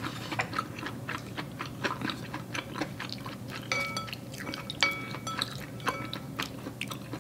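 Close-up chewing of soft, chewy Korean rice cakes (tteokguk), with many small mouth clicks. Around the middle, wooden chopsticks clink a few times against the ceramic soup bowl, each clink ringing briefly.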